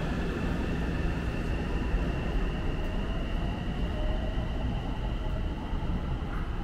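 Tsukuba Express electric train running at the station platform: a steady rumble with a faint high whine that slowly rises in pitch.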